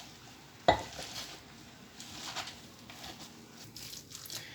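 Hands mixing a wet gram-flour (besan) pakora batter with chopped spinach, potato and onion in a bowl, making soft, irregular squishing sounds, with one sharp knock less than a second in.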